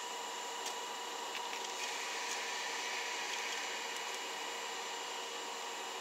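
Steady hum and hiss from the equipment of a stationary JNR 381 series express train, with a few faint high whining tones and a few faint ticks.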